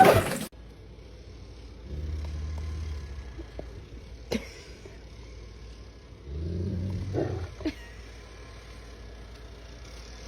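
Lion growling low twice, each rumble lasting just over a second, with a sharp click between them.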